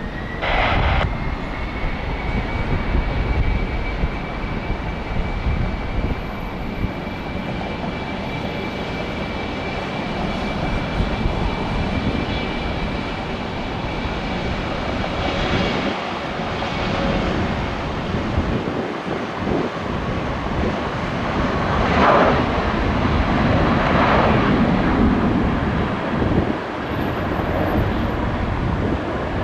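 Jet airliner engines running as the aircraft passes: a steady rumble with a high engine whine, growing louder about three quarters of the way through.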